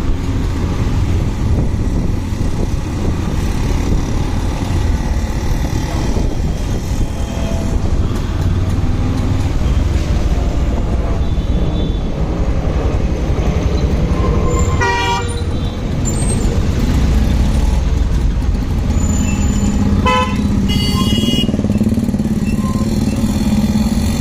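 Motorcycle riding in traffic: steady engine, road and wind noise. A vehicle horn toots briefly a little past halfway, and again for about a second near the end.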